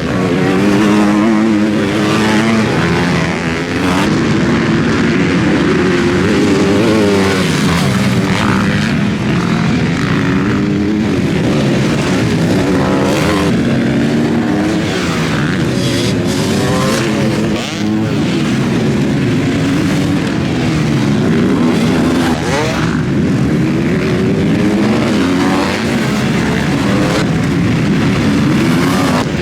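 Several motocross bikes racing on a dirt track, their engines revving hard and falling back over and over as they accelerate, shift and brake, with two or more engines heard at once at different pitches.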